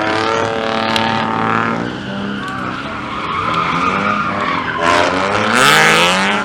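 A car engine revving hard with its tires squealing and skidding, the engine pitch climbing and the squeal loudest about five to six seconds in.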